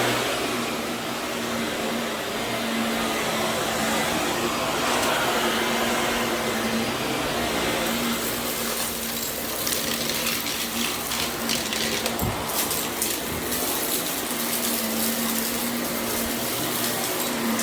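Vacuum cleaner running steadily over berber carpet, with a constant motor hum. From about halfway through, rapid crackling clicks of gritty debris being sucked up.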